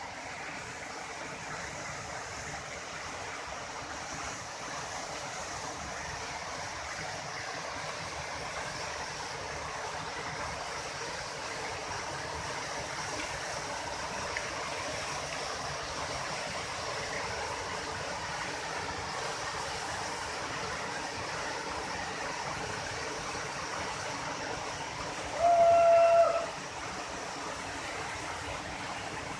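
Waterfall rushing steadily. About three seconds before the end, a single loud, held, steady-pitched tone lasting under a second cuts in over it.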